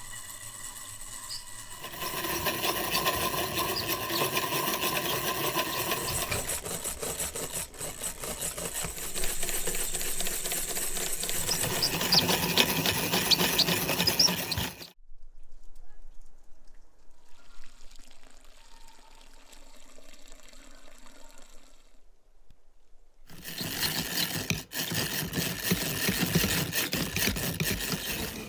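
An ice cream mixture being whisked by hand in a bowl, a rapid busy rattle, with a much quieter stretch in the middle.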